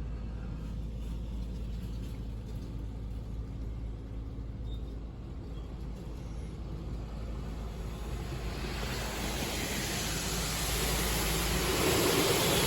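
Inside a car going through an automatic car wash: a steady low hum, then from about eight seconds in a hiss of spray hitting the car that swells and grows louder.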